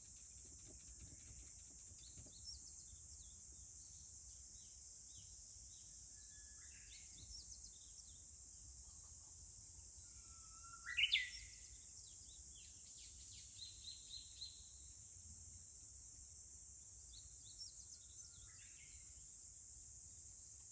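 Japanese bush warbler singing a few times, each phrase a held lower note followed by quick rising notes, loudest about halfway through, over a steady high drone of cicadas.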